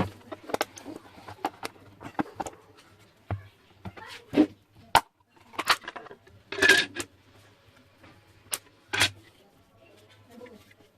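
Irregular sharp clicks and knocks of small hard objects being handled, with a longer scraping rattle about two-thirds of the way through, over a faint steady low hum.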